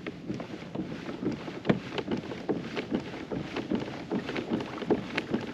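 Kayak being paddled: the paddle dips in and water splashes and drips against the hull in quick, irregular taps.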